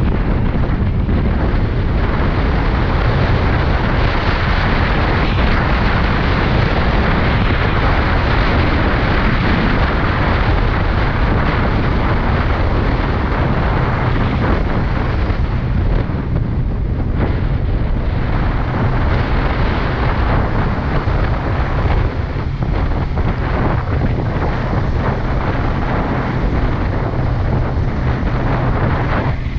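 Steady wind blast on the microphone at riding speed, with the engine of a Kawasaki Ninja 400 motorcycle running underneath. The rush eases briefly twice in the second half.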